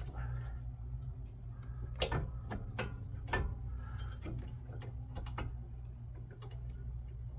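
Irregular light clicks and knocks of brake caliper parts and slider pins being handled while they are wiped and greased, over a steady low hum.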